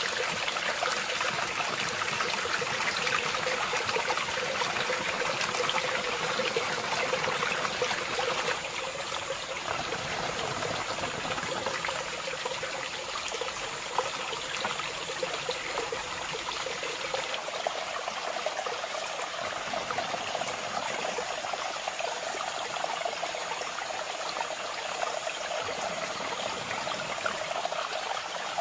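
Running water, a small stream trickling over stones. About a third of the way in the sound changes character, and a thin steady high tone joins it.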